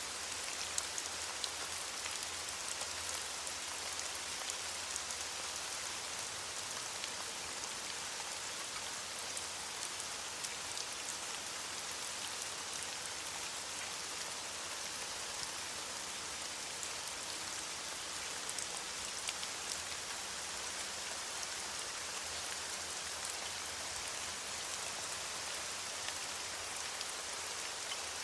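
Steady rain falling on leaves: a continuous hiss of many small drop patters.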